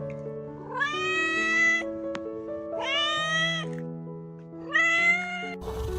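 Domestic cat meowing three times, each call rising at the start and then held for under a second, over background music.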